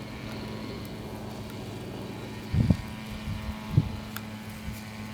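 Ural M-62 motorcycle's K-750M side-valve flat-twin engine running unevenly after years of standing, a steady hum broken by a few irregular loud thumps.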